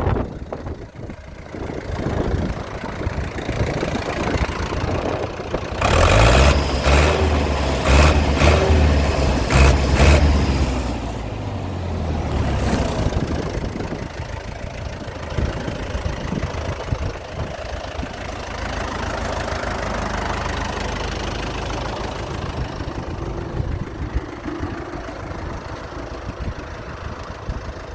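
Zetor 7745 tractor's four-cylinder diesel engine running. It gets louder and deeper for about five seconds a quarter of the way in, then settles back to a steady idle.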